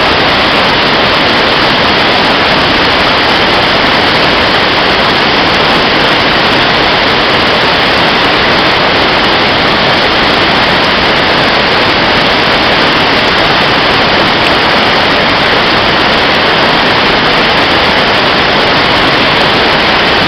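Rushing water: a loud, steady, unbroken rush of noise that does not change.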